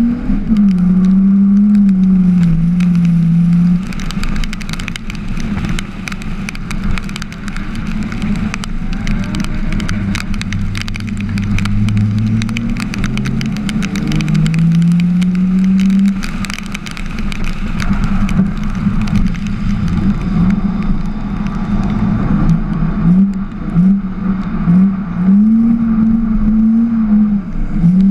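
Drift car's engine under hard driving, the revs rising and falling again and again as the car slides through the corners, dropping lower for a few seconds midway before climbing back. A crackling, buffeting noise runs over it.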